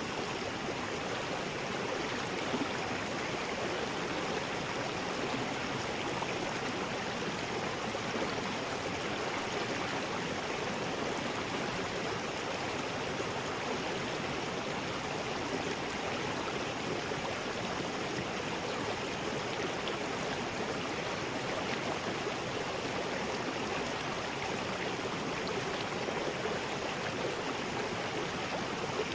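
River rapids: water rushing steadily over rocks in an unbroken roar.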